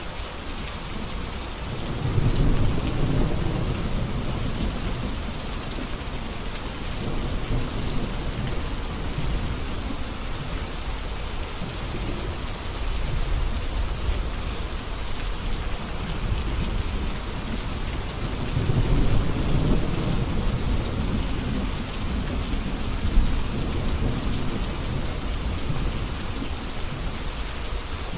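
Steady rain falling, with two low rolls of thunder, one about two seconds in and another some eighteen seconds in.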